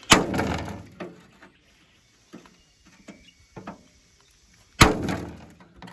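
Two sharp knocks about five seconds apart, each with a short ringing tail, and a few faint clicks between: tools and metal parts being handled while a panel is being unbolted.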